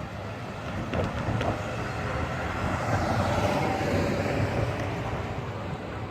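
A vehicle passing by, its noise swelling to a peak around the middle and easing off, with a couple of sharp clicks early on.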